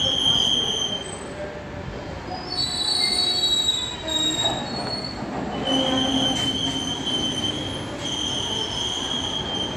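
Freight train's goods wagons rolling past with a high-pitched squeal from their running gear over a steady rumble. The squeal fades about a second in, returns higher in pitch for a second or two, then comes back strongly at about six seconds and holds until near the end.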